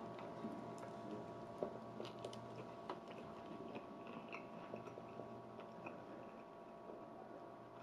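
Faint chewing of a large mouthful of plant-based burger, with scattered small wet clicks from the mouth.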